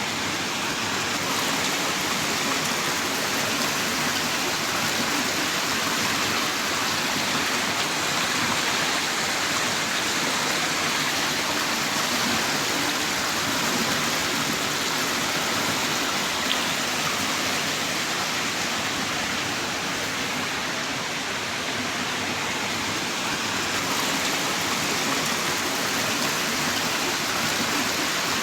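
Heavy rain downpour: a steady, dense hiss of rainfall with no distinct drops or pauses.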